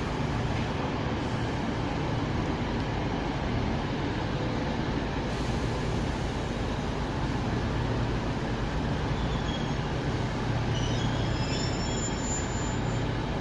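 Diesel trains idling in the station: a steady low engine hum under general station noise, with a few faint high-pitched tones near the end.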